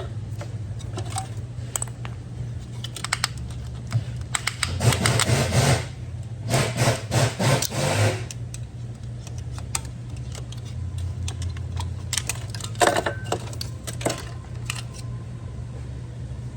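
Metal tools and parts being handled: clinks, rattles and rustling over a steady low hum.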